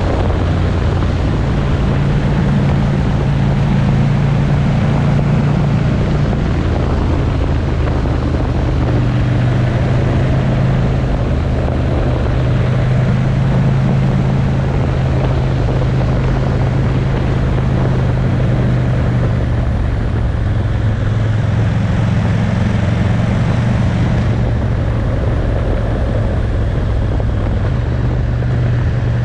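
Motorcycle engine running at a steady road speed, its pitch shifting a little now and then, with wind rushing over the microphone.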